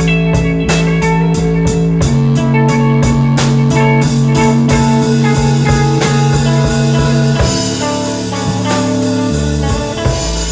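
Live instrumental rock jam in A major: drum kit keeping a steady beat, long held bass notes that change every few seconds, and guitar lines played over them.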